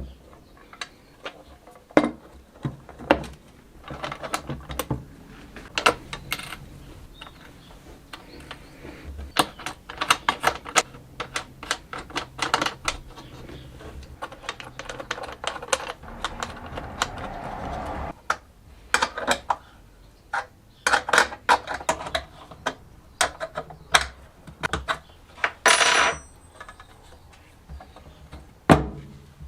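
Workshop bench work: tools and small metal parts clicking, clinking and knocking irregularly, with a longer steady scraping noise in the middle and one sharp metallic ring near the end.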